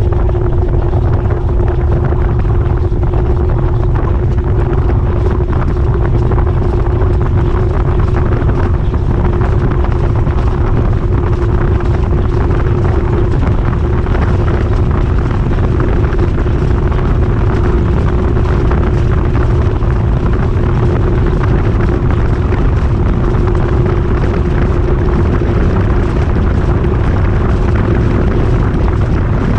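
GE GTW220ACKWW top-load washer spinning at a steady high speed, heard from inside the drum: a loud, constant rumble with a steady hum.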